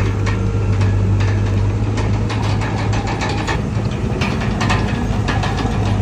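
Komatsu D31PX bulldozer's diesel engine running steadily with a low hum, with frequent irregular metallic clanks and clicks from the working machine.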